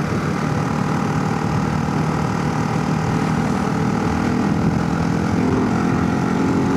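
Motorcycle engine running at highway speed with wind rushing over a helmet-mounted microphone; the engine note climbs a little in the last couple of seconds as the bike accelerates.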